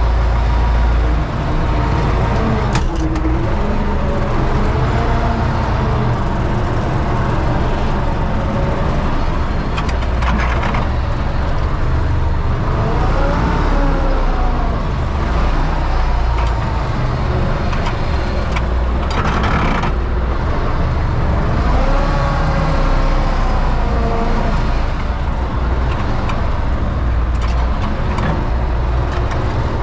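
Universal U650 tractor's diesel engine running steadily, with a few brief clanks over it.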